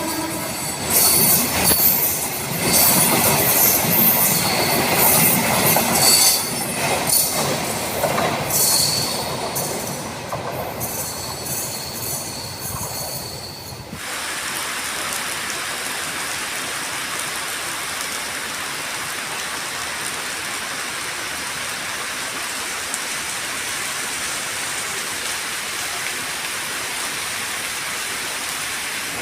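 Train running on the rails with wheels squealing and clattering for about the first half. About halfway through it cuts off abruptly to a steady, even hiss.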